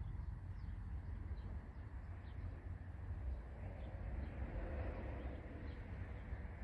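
Wind buffeting the microphone, a constant low rumble with a rushing swell about four to five seconds in, with a few faint bird chirps above it.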